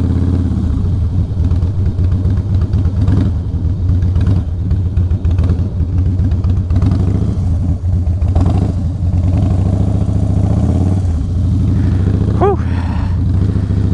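Harley-Davidson V-twin engine running at walking pace, the throttle and clutch feathered through slow tight turns.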